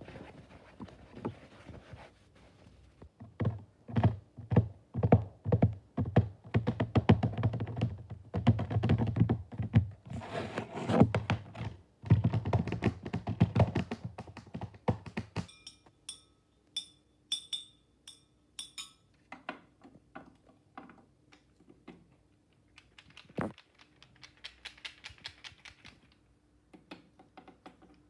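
Fast runs of taps and thuds on an object, typical of ASMR tapping. About halfway through they give way to sparser, softer clicks over a faint steady hum.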